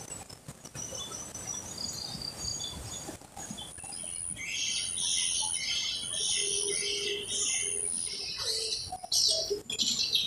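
Birds chirping, a few faint calls at first and then a dense chorus of short, high chirps from about four seconds in.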